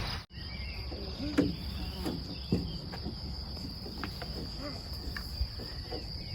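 Insects, likely crickets, chirring as a steady high-pitched trill, with faint distant voices.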